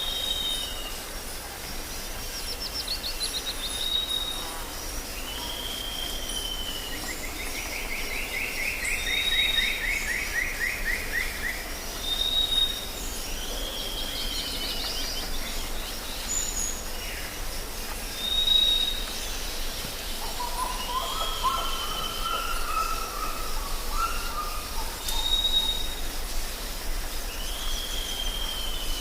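Several birds singing and calling over a steady background hiss: a short high whistled note repeats every few seconds, with a buzzy, falling trill about a quarter of the way in and a lower warbling phrase about two-thirds through.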